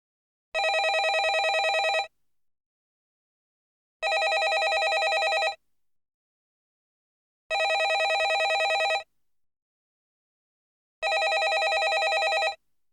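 Landline telephone bell ringing: four rapid, trilling rings of about one and a half seconds each, with about two seconds of silence between them.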